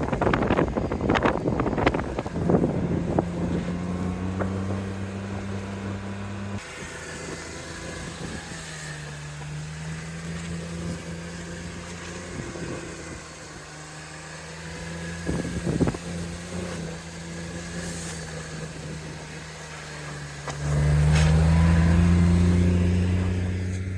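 Car engine running steadily, with wind noise at the start. Near the end it gets suddenly louder and rises a little in pitch as the car accelerates, then fades out.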